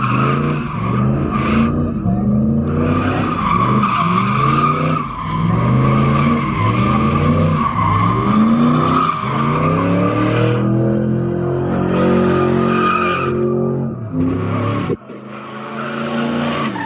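A car spinning its tyres in a burnout or donut: the engine revs up and down over and over while the tyres squeal steadily. The engine sound drops away sharply near the end.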